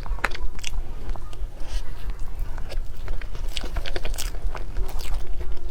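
Mouth sounds of someone eating cake: bites and chewing, with many quick, wet clicks of the mouth and lips.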